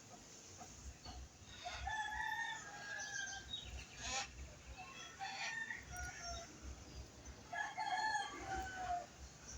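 Rooster crowing, three drawn-out crows in a row, with a sharp click about four seconds in.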